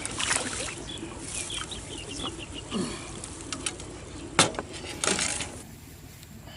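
Birds chirping, with a sharp knock a little past four seconds in and a short rush of noise about a second later.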